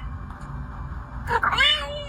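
A cat meowing once near the end, a drawn-out call that rises and then falls in pitch.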